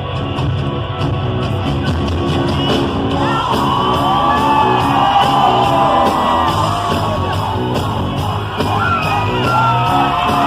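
A live rock band playing loudly in a large hall, with the audience screaming and whooping over the music from about three seconds in.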